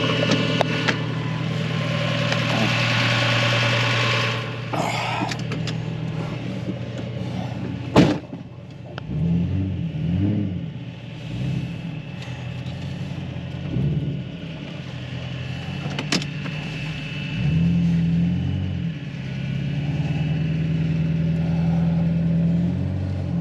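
Tractor engine running steadily, a single sharp knock about eight seconds in, then the engine speeding up and slowing down again and again as the tractor is driven.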